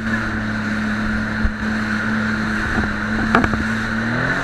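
Jet ski engine running at a steady speed under a steady rush of water and wind, its note rising slightly near the end. A short knock comes about three and a half seconds in.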